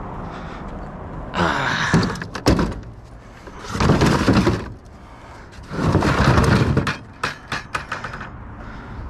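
Junk being handled and shifted: three scraping, rustling stretches of about a second each, with sharp knocks and clatters between them.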